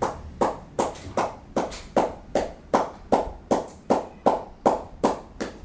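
An even, rhythmic run of sharp taps, about two and a half a second.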